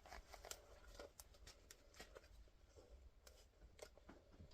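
Near silence with faint, scattered small clicks and rustles: a plastic face shield being put on and adjusted.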